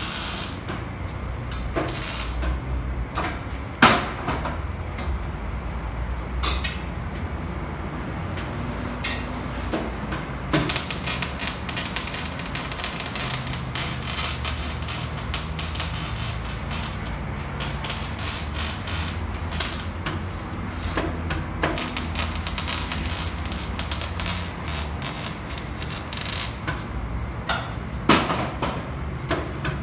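Exhaust-shop metalwork: irregular knocks, taps and clatter over a low, steady rumble, thickening into a rapid run of clicks and knocks through the middle.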